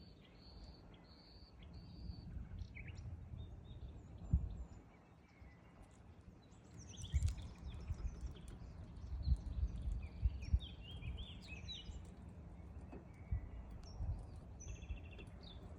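Several songbirds singing, a chorus of short chirps and trills that is busiest in the middle, over intermittent low rumbling bumps.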